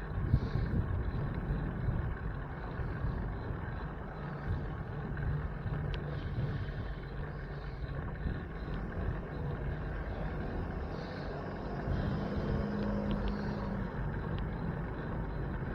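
Steady low rumble of wind and road noise from a moving bicycle ride in traffic, with a passing motor vehicle's engine hum rising and falling near the end.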